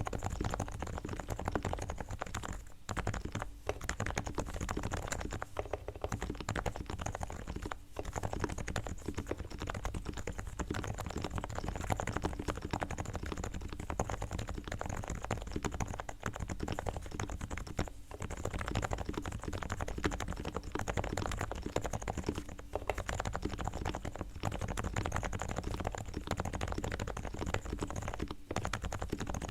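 Continuous typing on a Realforce R3 TKL silent keyboard with 45 g electrostatic capacitive switches, in its fully tuned state: sliders and springs lubed with Krytox, stabilizer wires straightened and lubed, and Thinsulate damping inside. Dense, quick keystrokes with only brief pauses.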